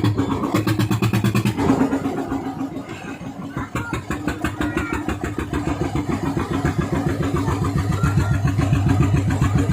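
Fishing boat's engine running with a rapid, regular firing beat. It eases off about two seconds in and builds back up toward the end.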